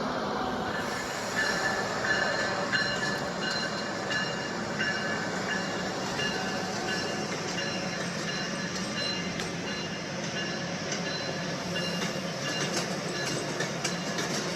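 A train moving on the rails with a steady rumble. From about a second in, the wheels squeal against the rails in intermittent high-pitched tones, with scattered clicks.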